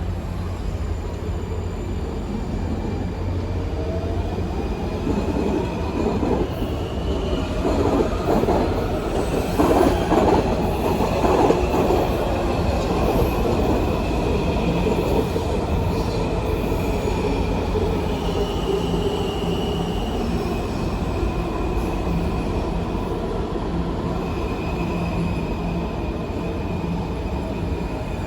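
Train rolling past on steel rails, a steady rumble that swells loudest about ten seconds in, with high-pitched wheel squeal coming and going over it.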